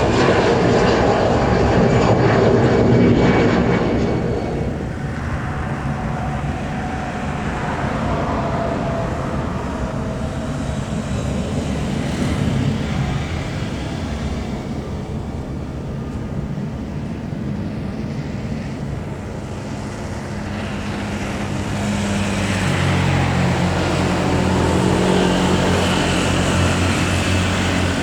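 Jet airliner engines roaring past, loudest in the first few seconds and then fading. Near the end a lower, steadier engine hum with a low drone builds up.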